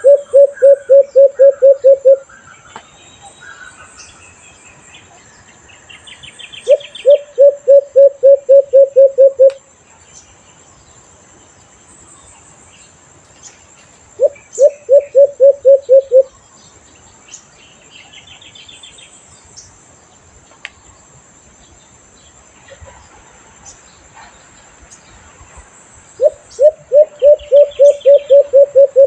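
Alimokon dove cooing: four series of about ten low, rapid hoots, each series lasting two to three seconds. A steady high insect whine and faint chirps of other birds run underneath.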